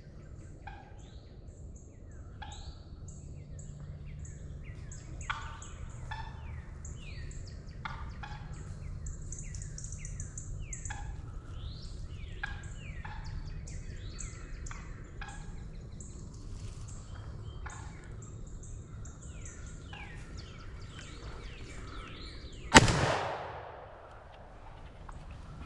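Small birds chirping and singing with short falling whistles, then near the end a single very loud shotgun blast that dies away over a second or so.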